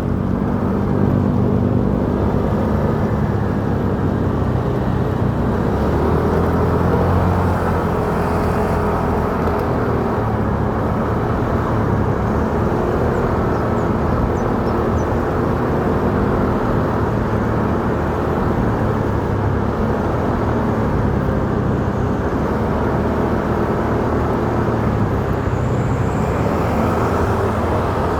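Motorcycle under way on a city road: its engine running steadily under road noise, with no sharp events.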